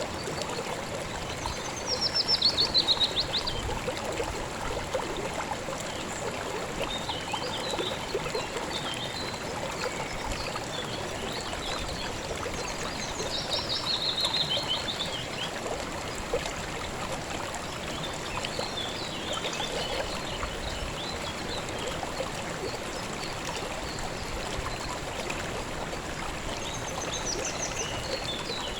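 River water running steadily. A small bird sings three times, each a quick trill of rapid notes falling in pitch: about two seconds in, about thirteen seconds in and near the end, with fainter chirps between.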